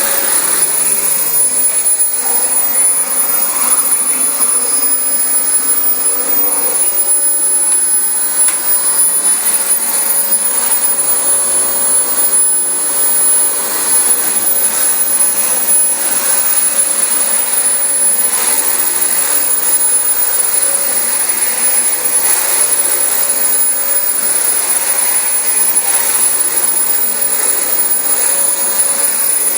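Dyson DC25 bagless upright vacuum cleaner running steadily over carpet, with a steady high whine over the airflow noise.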